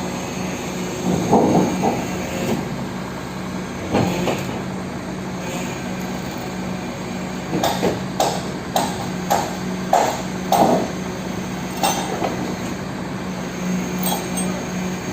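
Crane truck's engine running steadily with a low hum, while a run of sharp metallic knocks and clanks comes through, thickest in a quick series about halfway through.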